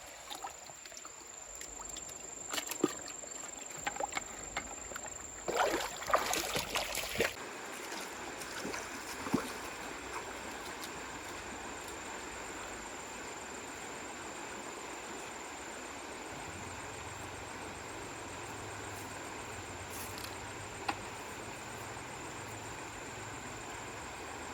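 Splashing and sloshing in shallow water for the first several seconds, with one longer stretch of heavy splashing, then a steady rushing and trickling of flowing water.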